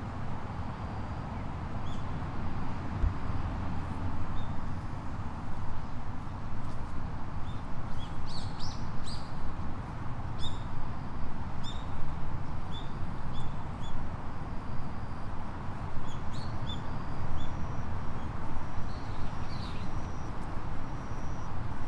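Small birds chirping, short high calls repeated in clusters, over a steady outdoor rush of water and wind noise.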